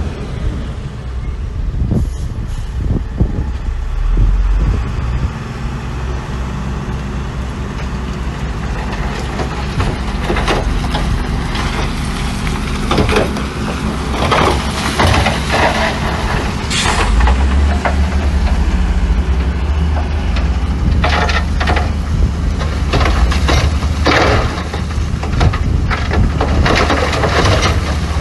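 Heavy diesel machinery, dump trucks and a bulldozer, running steadily with a deep engine drone that grows louder about two-thirds of the way through. Repeated short noisy bursts sound over it in the second half.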